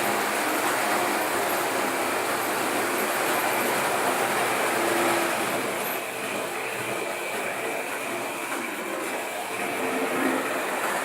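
Märklin model train running on its metal track, a steady running noise of small motor and wheels on rail. It gets a little quieter about six seconds in and picks up again near the end.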